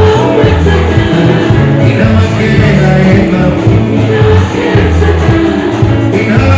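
Loud live band music with a singer over a heavy, stepping bass line.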